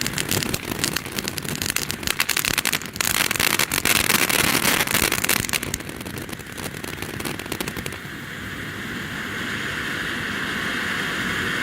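Ground fountain firework going off: rapid crackling for about the first three seconds, then a hissing spray, settling from about eight seconds in into a steady hiss that slowly grows louder.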